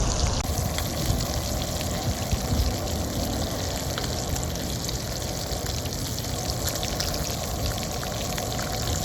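Trout frying in hot oil in a pan: a steady sizzle with many small crackles and pops.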